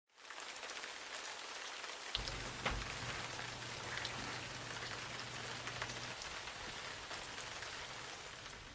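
Steady rain falling, an even patter with a few sharper drop hits about two to three seconds in, easing off near the end. A low hum joins about two seconds in.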